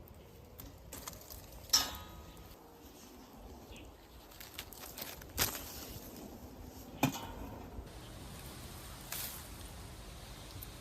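Hand-picking among the branches of a thorny Cherokee rose bush: light rustling with three sharp snaps or clicks, about two, five and a half and seven seconds in, over low wind rumble on the microphone.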